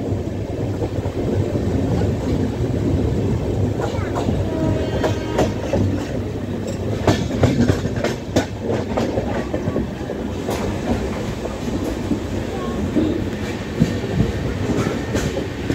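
Train running along the rails, heard from on board: a steady low rumble, with clusters of sharp wheel clicks over rail joints about halfway through and again near the end.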